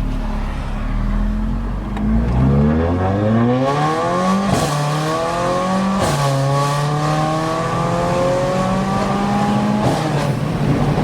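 Straight-piped Mercedes-AMG CLA45's turbocharged four-cylinder accelerating, its pitch climbing through the gears. There are two quick upshifts with a sharp crack about four and a half and six seconds in, then a long steady climb that drops back near the end.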